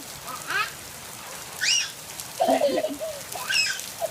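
Steady rain falling on surfaces. Over it come a few short, high-pitched rising-and-falling squeals, with a brief lower vocal sound about two and a half seconds in, the loudest moment.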